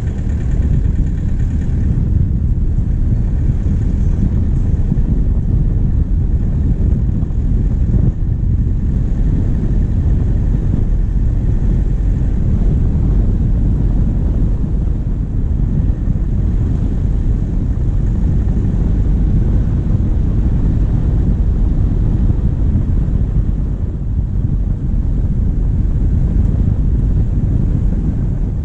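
Diesel vehicle driving steadily on a forest track, heard from a bonnet-mounted camera: a loud, even low rumble of engine, tyres and wind on the microphone.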